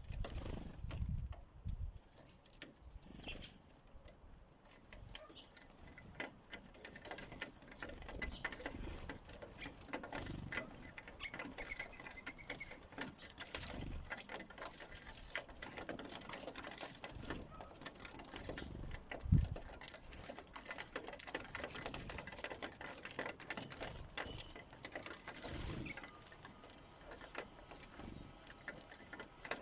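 Sparrows pecking at seed on a bird feeder: a steady run of quick little taps and scratches, with one low thump about two-thirds of the way through.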